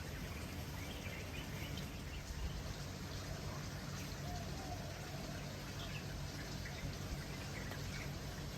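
Garden ambience: a steady, even hiss of outdoor background noise with a few faint bird chirps.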